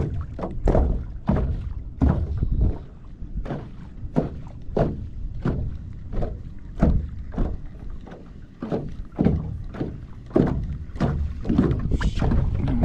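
Small waves slapping against the hull of a small fishing boat: irregular knocks and splashes a couple of times a second over a low rumble of wind and water.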